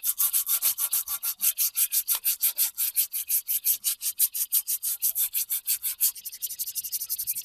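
Hand sanding: rapid back-and-forth strokes of abrasive rubbed over the hammer, about five or six strokes a second with a dry rasping sound. About six seconds in the strokes turn lighter and quicker.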